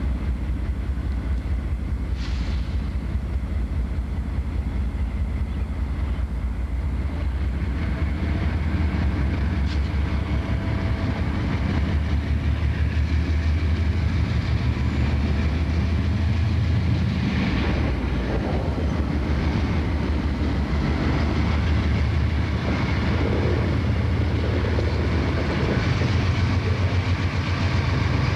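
Diesel-hauled freight train running on the track, a steady low rumble with wheels clicking over the rails, growing a little louder partway through.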